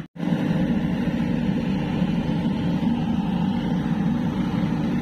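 Steady engine drone that cuts out for a split second right at the start, then runs on evenly.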